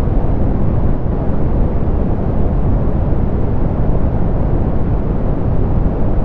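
Steady, softened pink noise: an even, unchanging hiss weighted toward the low end, with little above the upper mids.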